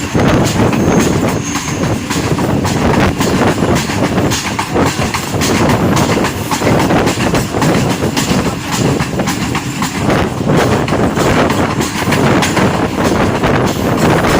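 Passenger train coaches running along the track: a steady rumble of wheels on rail, with a continual rattle of clicks over the rail joints.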